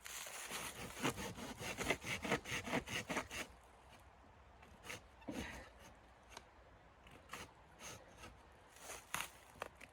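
Hand saw cutting wood: a quick run of back-and-forth rasping strokes, about three a second, for roughly the first three and a half seconds, then a few scattered knocks and rustles.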